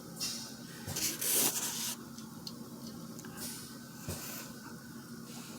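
Mukbang eating sounds: wet, squishy mouth and hand noises of eating butter-sauced seafood, with a hissing burst from about one to two seconds in.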